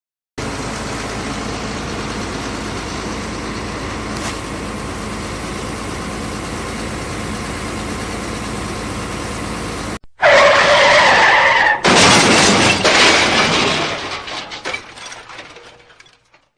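Truck engine sound effect running steadily for about ten seconds, then cutting to a brief tyre squeal and a loud crash with breaking glass that fades away.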